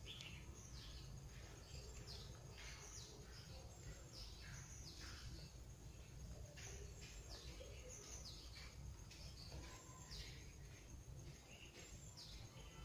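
Faint bird chirps: short falling notes repeated about once or twice a second, over a low steady background rumble.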